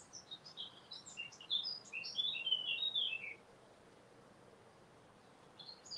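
Small songbirds chirping and singing in quick runs of short high notes, busiest in the first three seconds, quiet for about two seconds, then starting again near the end.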